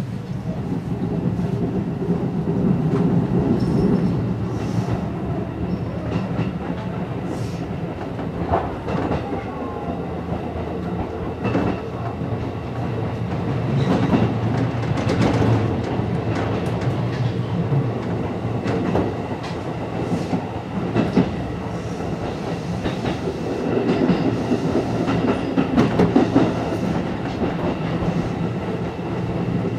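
Seibu 101-series electric train running along the line, heard from inside its front cab: a steady low rumble with the wheels clicking over rail joints several times.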